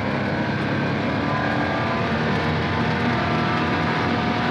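Small jeep's engine running steadily under load on an uphill climb, its pitch drifting slowly up and down.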